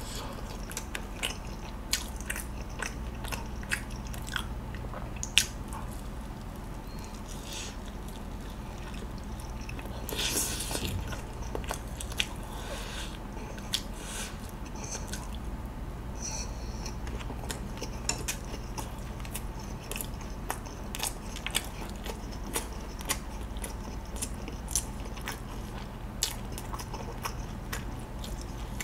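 Close-miked mouth sounds of biting and chewing charcoal-grilled chicken skewer meat in sweet-spicy sauce, with many small wet clicks and smacks scattered throughout. A brief louder burst of noise comes about ten seconds in.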